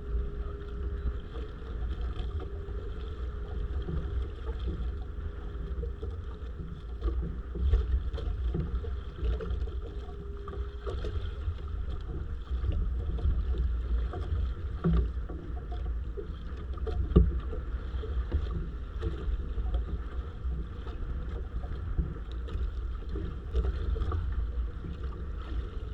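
Motorized bangka (outrigger fishing boat) under way, its engine making a steady drone. Wind rumbles on the microphone and there are a few short knocks.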